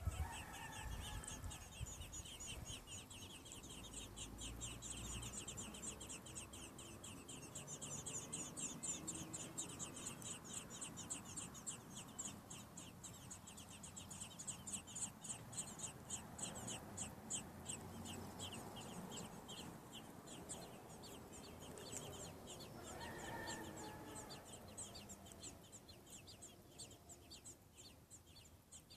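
Baby American robins in the nest peeping: a steady, rapid run of thin high peeps, about three a second, with a lower call near the start and again about 23 seconds in.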